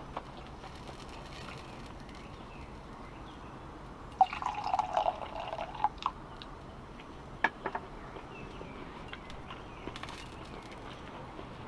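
Liquid poured or splashed for about two seconds, starting about four seconds in, followed by a few sharp clicks.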